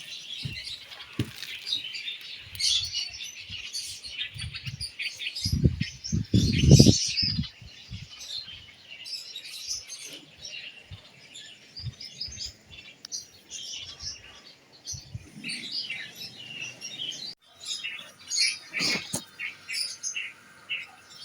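Baby bird chirping over and over in quick, high, short calls. A few dull thumps and rustles of handling come in around a third of the way through, the loudest sounds here.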